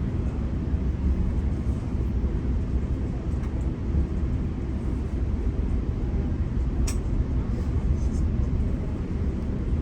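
GO Transit commuter train running along the track, a steady low rumble of wheels and rail, with one short sharp click about seven seconds in.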